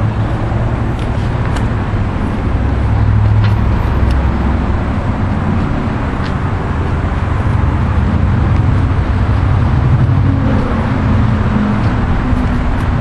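An engine running steadily with a low, even drone, with a few faint clicks and knocks over it in the first half.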